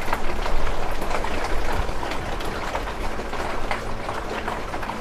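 Rainwater pouring down from a leaking stadium roof in a heavy downpour: a steady rushing of water peppered with many small splashes and patters.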